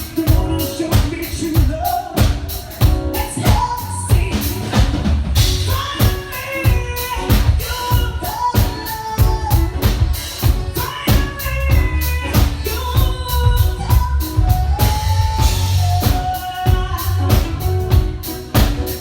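Live R&B band playing with a steady drum-kit beat and a strong bass line, with a singer's voice carrying a melody over it.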